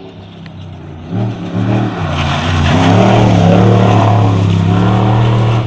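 Off-road race truck engine held at high, steady revs, growing louder over the first few seconds as the truck nears, then cutting off suddenly near the end.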